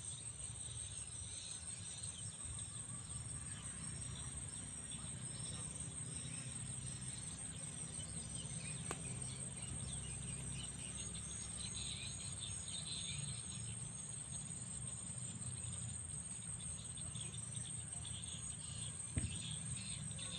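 Insects trilling steadily at a high pitch, with many faint chirps below the trill and a low rumble underneath. A single sharp knock comes near the end.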